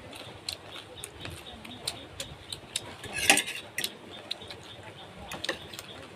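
Scattered light clicks and knocks of eating utensils against dishes, with one louder clatter a little past halfway.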